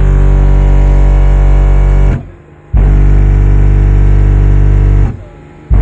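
Car subwoofer system of eight 8-inch Sundown subwoofers on Sundown amplifiers playing loud bass-tone burps for an SPL meter run, with a peak around 50 Hz. Three burps of about two seconds each with short breaks between, the steady tone carrying a heavy buzz of overtones.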